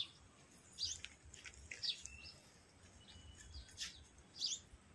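Small birds chirping: several short, high chirps spread out across a few seconds, each a quick slide in pitch.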